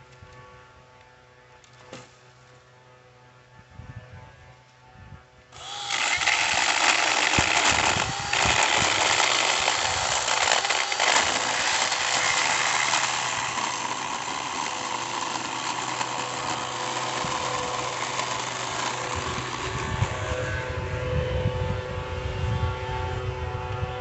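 A power saw starts about six seconds in and runs steadily, cutting into a tree limb.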